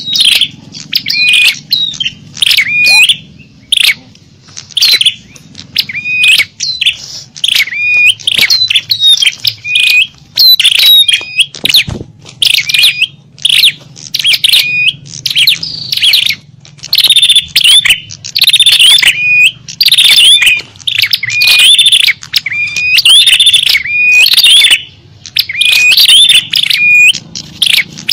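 Loud, busy chattering of small birds: rapid high chirps and short trills following one another with barely a break, a lure-call recording used to draw small birds in.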